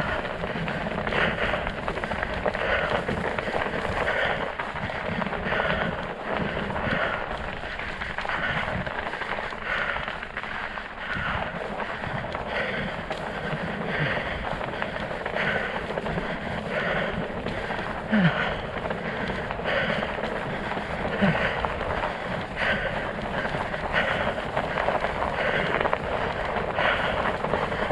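Fat bike with studded tyres rolling over snow and ice, a steady crunching hiss with a regular swish about every second and a half, and a few short squeaks.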